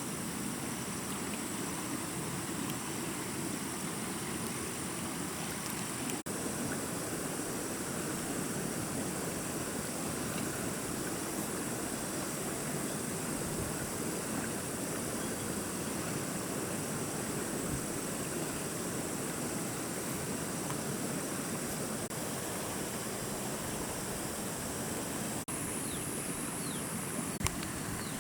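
Steady rushing noise of water, even and unbroken, with a faint steady high hiss above it.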